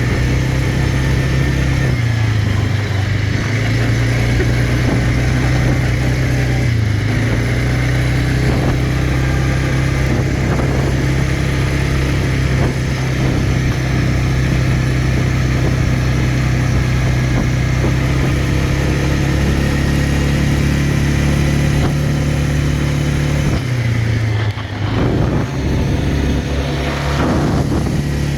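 Quad bike engine running steadily under throttle, its pitch dipping briefly a few times as the throttle eases off and picks up again.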